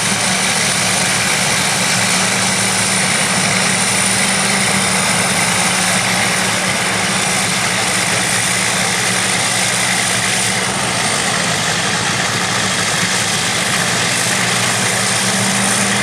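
Engines of vintage crawler bulldozers and scrapers running steadily, a continuous heavy machinery drone with a thin high whine above it.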